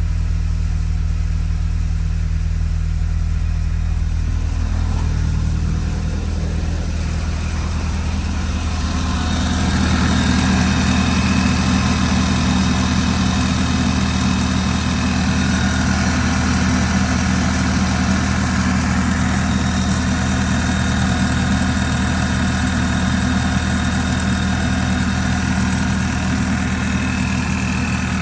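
2011 Audi A5's 2.0 L turbocharged four-cylinder engine idling steadily. About nine seconds in the sound becomes slightly louder and fuller, then holds steady.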